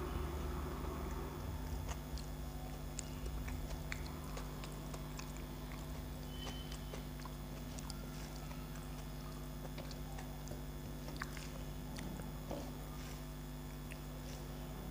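A person chewing a mouthful of rice and curry, with scattered small clicks and squishes as fingers mix rice on a steel plate, over a steady low hum.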